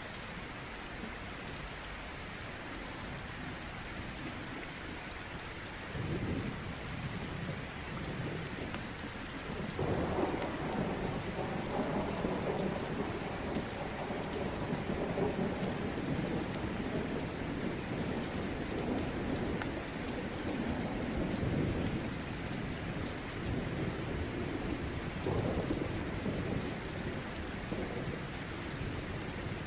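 Steady rain with rolling thunder: a low rumble builds about six seconds in, swells strongly from about ten seconds for some twelve seconds, and rises again near the end.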